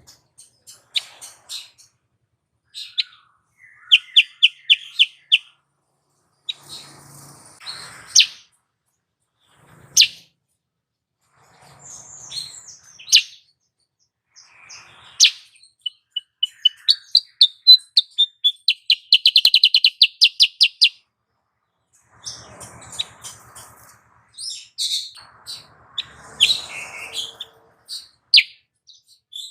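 Female kutilang sutra bulbul calling: scattered high chirps broken by short pauses, and rapid trills of evenly repeated notes, the longest and loudest trill a little past the middle. These are the female's calls that keepers use to excite and set singing a male of the same kind.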